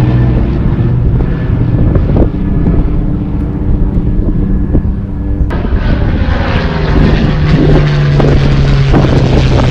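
Piston engine of a propeller-driven warbird running with a steady drone. The sound changes abruptly a little past halfway and is louder and fuller after that.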